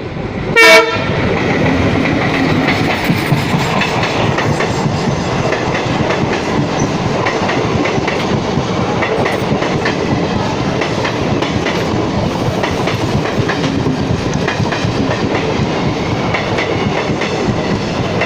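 Passenger train running, a steady rumble with wheels clicking over rail joints. Under a second in, a single short, loud horn blast.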